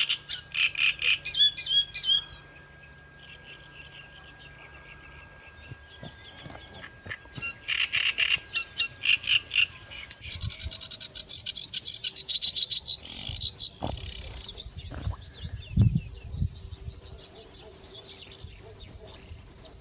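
Birds chirping in quick runs of repeated high calls, coming in several bouts, over a steady high-pitched hum. A few low thuds come near the end.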